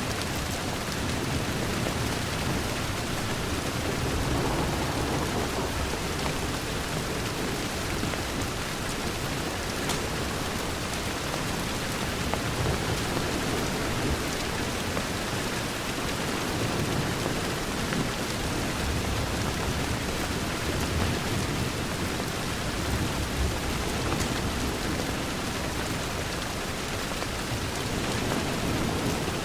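Steady rain falling on a window pane, an even wash of noise with low rumbling swells now and then.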